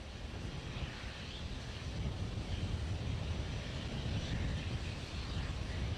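Steady outdoor ambient rumble with a wind-like hiss, growing a little louder about a second in.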